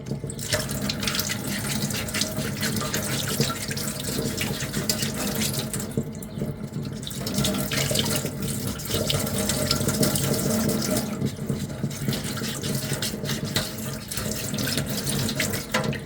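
Sandpaper being rubbed by hand over a small 3D-printed plastic armour piece coated in filler putty: continuous scratchy rasping strokes, with a short pause about six seconds in.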